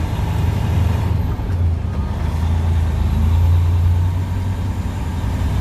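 Semi truck's diesel engine running, a steady low drone heard from inside the cab.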